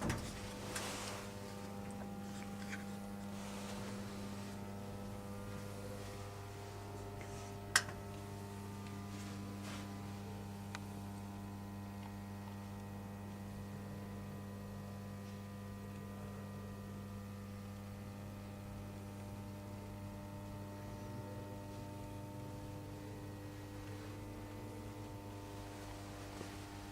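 Steady mains-frequency electrical hum from a powered-up Ungerer RM 3000 CNC straightening machine standing idle, a fixed low tone with even overtones. A single sharp click comes about eight seconds in.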